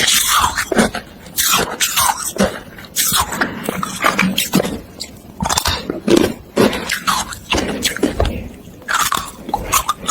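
A person biting and chewing hard carbonated ice close to the microphone: irregular loud crunches and cracks follow each other several times a second, with a couple of brief pauses.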